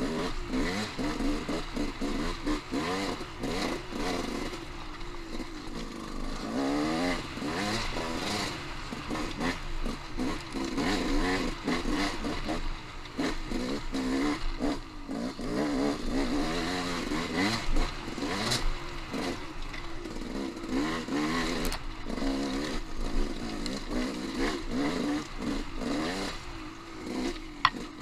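Off-road motorcycle engine being ridden on singletrack, its pitch rising and falling over and over as the throttle is opened and closed, with frequent knocks and clatter and a sharp click near the end.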